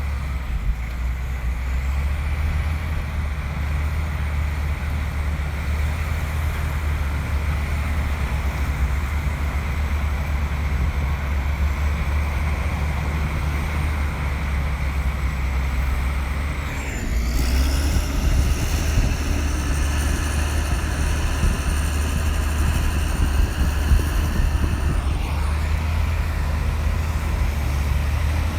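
Komatsu bulldozer's diesel engine running with a steady, heavy low rumble. About two-thirds of the way through, a higher whine and louder machinery noise join in for around eight seconds, then drop away.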